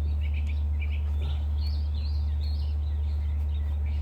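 Birds chirping, a scattered string of short high chirps, over a steady low rumble.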